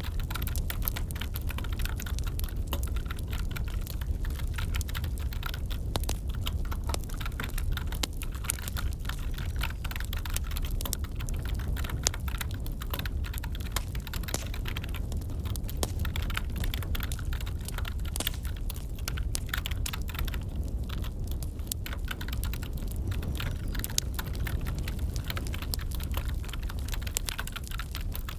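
Continuous, irregular typing on a computer keyboard mixed with the crackle of a wood fire, over a steady low rumble.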